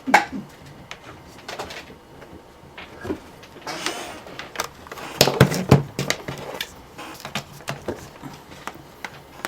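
Clicks and knocks of a plastic laptop being flipped over and handled on a workbench, with a cluster of louder knocks about five to six seconds in.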